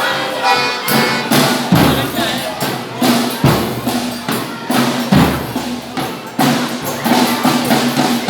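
Folia de Reis folk music: drum strokes and a jingling tambourine keeping a beat, with pitched instruments or voices underneath.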